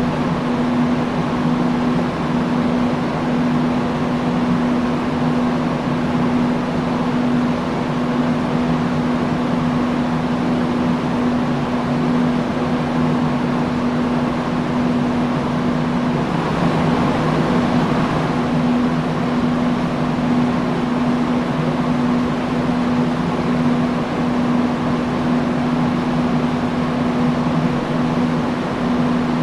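Industrial fan running steadily: an even rush of air over a constant low hum, swelling slightly for a couple of seconds a little past halfway.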